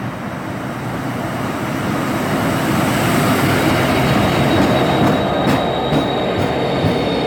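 A train passing close by, its rumble building steadily. A thin, high steady wheel squeal starts about four seconds in, and several sharp clicks come near the end.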